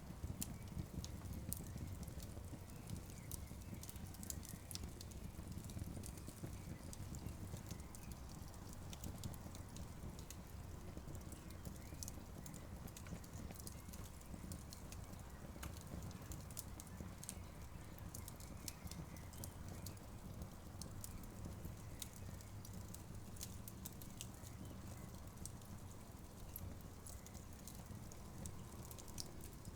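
Campfire burning, with frequent small sharp pops and crackles over a steady low rumble of the flames.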